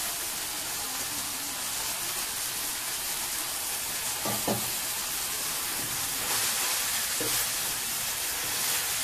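Chopped bottle gourd leaves sizzling in hot oil in a frying pan, a steady hiss as they fry. They are being turned with a wooden spatula, with a couple of light knocks about halfway through.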